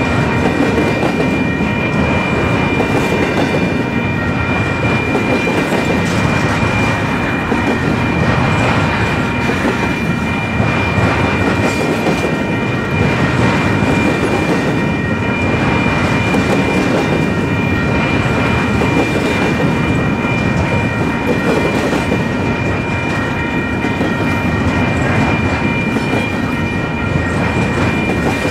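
A train rolling past at speed, a long steady rush of steel wheels on rail with clickety-clack over the joints and a thin, steady high-pitched ringing above it.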